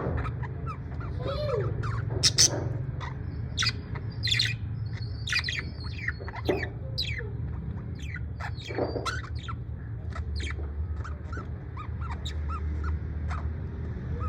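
A parrot calling in a run of short chirps and sharp squawks, with the loudest calls about two and four seconds in, over a steady low hum.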